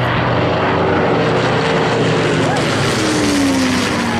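A Spitfire and a Hurricane, WWII piston fighters with Rolls-Royce Merlin V12 engines, flying low past with a loud, steady propeller-engine drone. The pitch falls about three seconds in as they go by.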